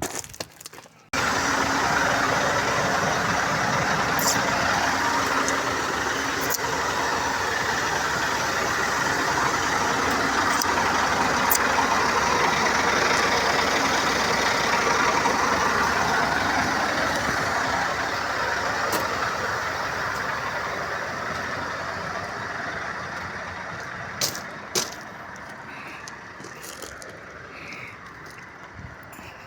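Scania S770 truck's 16.4-litre V8 diesel running with a steady sound that starts abruptly about a second in and slowly fades over the last third.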